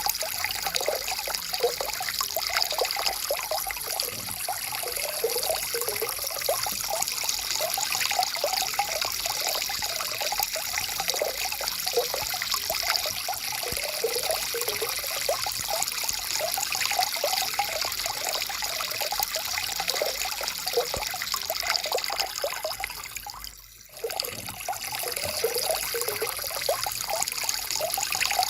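Stream water flowing and trickling with a steady babble. About three-quarters of the way through it fades down briefly and comes straight back.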